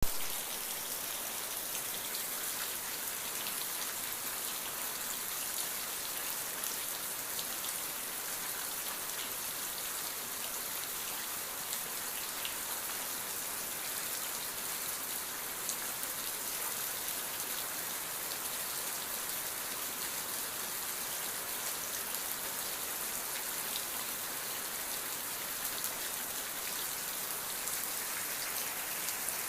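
Steady rain falling, a dense hiss with the patter of individual drops striking a surface.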